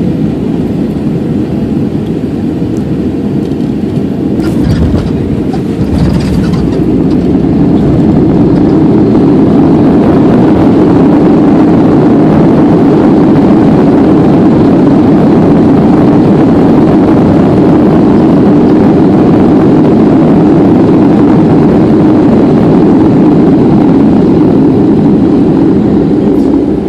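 Boeing 737-800 cabin noise on landing: a few knocks, then the CFM56 engines' roar rises about seven seconds in and holds loud, as on the landing rollout under reverse thrust, before easing off at the very end.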